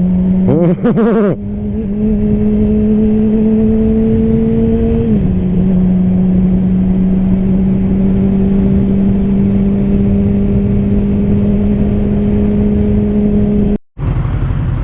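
Motorcycle engine running at a steady cruise over a constant rushing noise; the engine note steps down slightly about five seconds in, then holds steady until it cuts off abruptly near the end.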